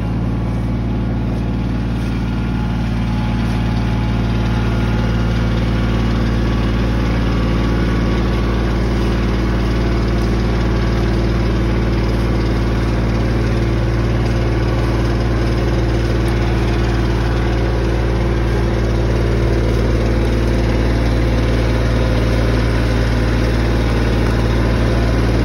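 Tractor diesel engine running steadily at constant speed, a deep even drone that does not falter.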